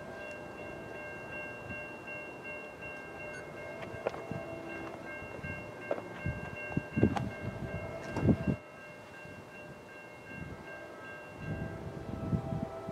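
An NJ Transit train approaching in the distance, with a steady high chiming that stops near the end, typical of grade-crossing warning bells. A train horn sounds faintly a few times, and several sharp knocks come in the middle.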